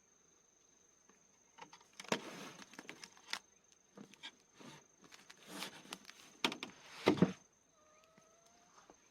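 Rustling, scraping and sharp knocks of objects being handled, in irregular bursts, over a steady high insect trill. A short, slightly rising call comes near the end.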